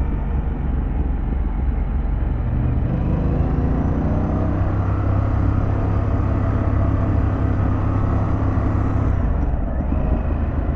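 Harley-Davidson Pan America's V-twin engine running under way while riding, with steady road rumble; the engine note climbs about three seconds in and then holds steady.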